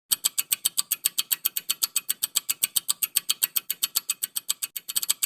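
Countdown timer sound effect: rapid, even clock-like ticking, about eight ticks a second, marking the answer time in a quiz.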